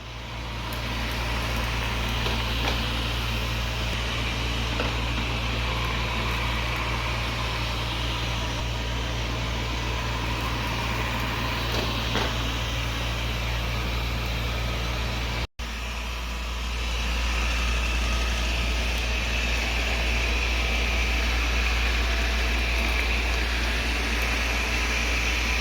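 Xiaomi Mijia Mop P robot vacuum running, its suction fan giving a steady whirring hum with a high whine. The sound breaks off for a moment a little past halfway and comes back louder, the whine stronger.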